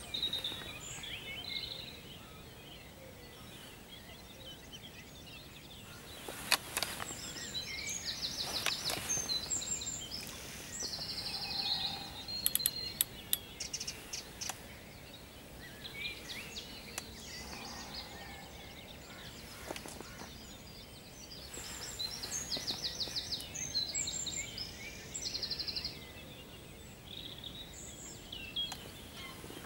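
Songbirds singing: scattered high chirps, and twice a longer song of fast repeated high notes, about a quarter of the way in and again about three-quarters through.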